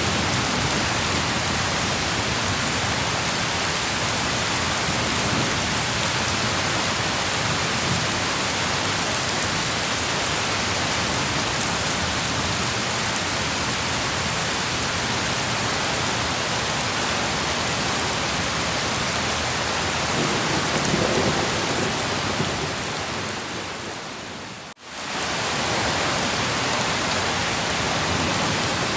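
Steady heavy rain with a low rumble of thunder about twenty seconds in. A few seconds later the sound fades and drops out for a moment, then comes back as before, like a loop point in the recording.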